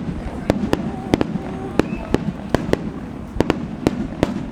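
Aerial fireworks going off: a quick, irregular run of sharp bangs and cracks, about a dozen in a few seconds.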